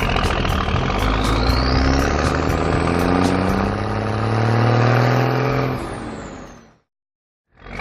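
Vehicle engine sound effect revving up, its pitch rising steadily with a climbing high whine, then fading away; after a brief silence it starts again near the end.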